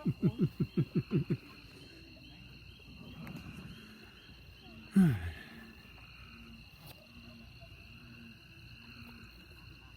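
Night insects, crickets, keep up a steady high trill. Over it, a rapid run of about eight loud, low, falling yelps fills the first second and a half, and a single loud falling cry comes about five seconds in.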